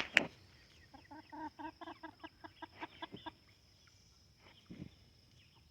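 A chicken clucking: a quick run of short clucks, about five a second, for about two seconds, then one more single call near the end.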